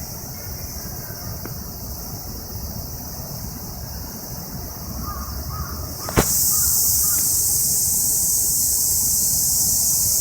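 Cicadas buzzing as a steady high-pitched hiss, which jumps much louder just after a sharp click about six seconds in.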